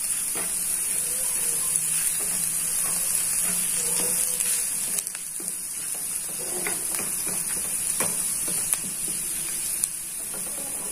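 Chopped garlic, ginger and green chillies sizzling in a little oil in a frying pan on a low flame, with a wooden spatula stirring and scraping across the pan now and then.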